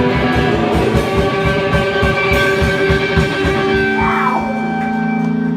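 Rock music: electric guitar holding chords over a fast, steady low beat, with a downward slide in pitch about four seconds in.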